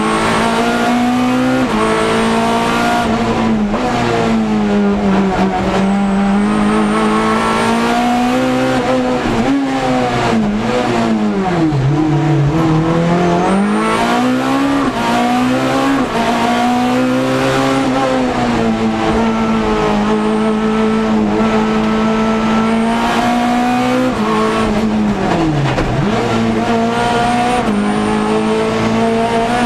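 Ford Focus race car's engine heard from inside the cabin, running hard at high revs. Its pitch climbs, steps down and climbs again through the gears, and dips deeply twice, about twelve and twenty-six seconds in.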